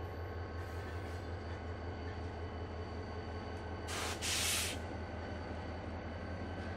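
Train on a rail delivery haul, with a steady low pulsing hum and, about four seconds in, a short loud hiss of air lasting under a second.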